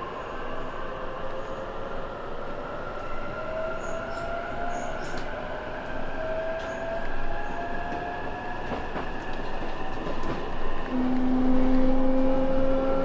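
Electric commuter train pulling out of the station and picking up speed, heard from inside the carriage: rumble and track noise under a motor whine that rises slowly in pitch, with a stronger steady tone near the end.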